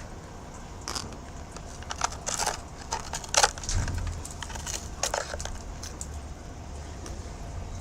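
A few short, scratchy rustles and crackles over a steady low hum, the loudest about three and a half seconds in.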